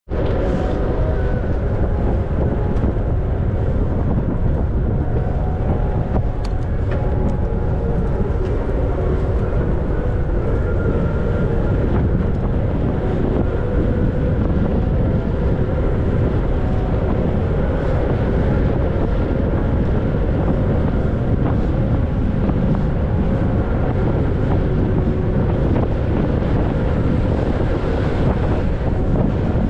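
Wind buffeting the microphone on a moving bicycle: a steady, loud low rumble.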